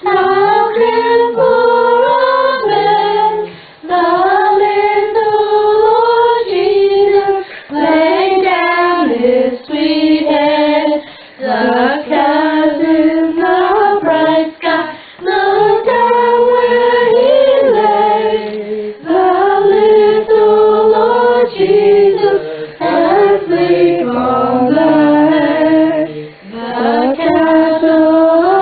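A group of women's and children's voices singing a Christmas carol together, in held melodic phrases with short breaks for breath.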